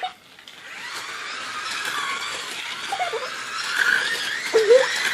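Small electric motors of the racing cars whirring steadily, building up about half a second in. Two brief faint voice sounds come in partway through.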